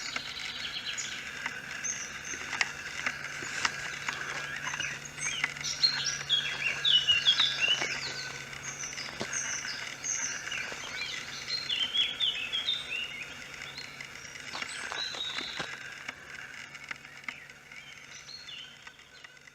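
Several small birds singing and chirping together in a wetland, a dense overlapping chorus of short high notes and trills, busiest in the middle and fading near the end.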